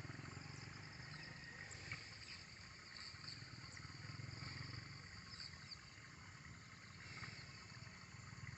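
Faint outdoor night ambience: insects chirping in short high notes over a steady low hum.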